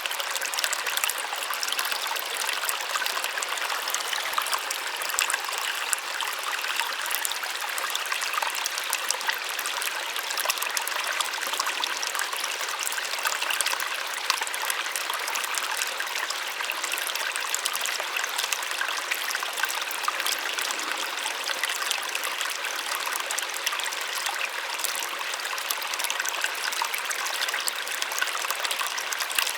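Small waterfall splashing steadily, a light, even rush of falling water with a fine patter, little low rumble.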